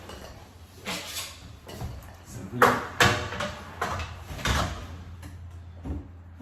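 A few knocks and scraping handling noises, the loudest pair about two and a half and three seconds in.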